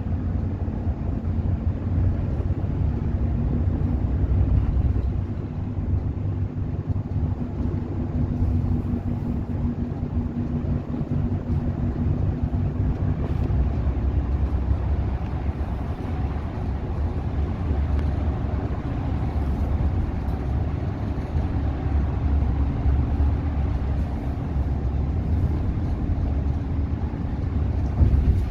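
Engine drone and road rumble inside a moving express bus's cabin, steady and heavy in the low end, with a humming engine note that holds for the first half and then fades.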